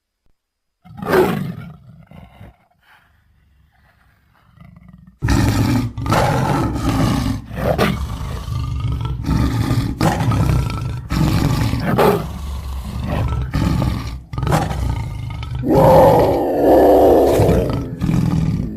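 Big-cat roars and snarls made from leopard, tiger and lion recordings. One sharp, falling snarl-roar comes about a second in. From about five seconds there is an unbroken run of growls and snarls, loudest near the end.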